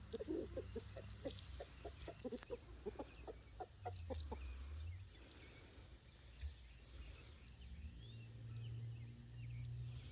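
Backyard chickens clucking: a run of short, low clucks, about three or four a second, that stops about five seconds in. A low rumble continues underneath.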